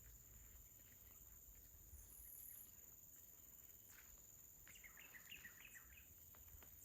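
Near-silent outdoor ambience with a faint steady high whine. A small bird gives a quick run of short chirps about five seconds in.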